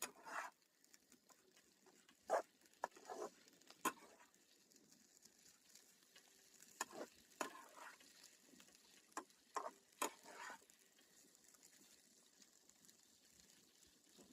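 Faint, irregular sharp clicks and knocks with brief rustling in between.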